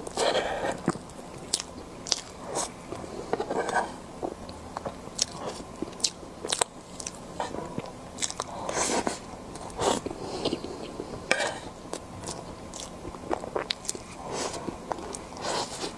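Close-miked eating: a person biting and chewing meat, with sharp wet mouth clicks and smacks at irregular intervals.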